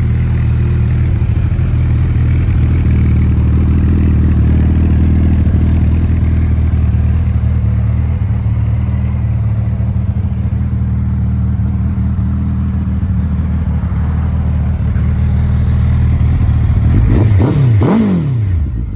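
Suzuki Hayabusa's inline-four engine idling steadily through a Yoshimura aftermarket exhaust, then blipped twice near the end, the revs rising sharply and falling back to idle.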